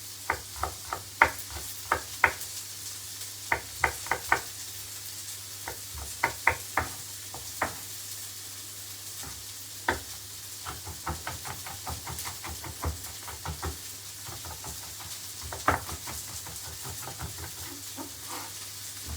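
Knife chopping on a cutting board as ginger and garlic are finely chopped: irregular runs of sharp knocks, a quicker run in the middle. A pan of onion and pepper sizzles steadily underneath.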